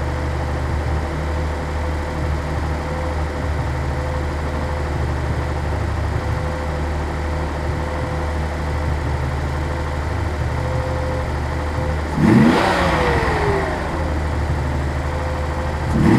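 1983 Datsun 280ZX turbo's turbocharged 2.8-litre straight-six idling evenly. About 12 seconds in it is revved once, the pitch rising and falling back to idle within a second or two, and a second rev starts at the very end. The idle sounds normal to the owner at this point, with no popping or sneezing.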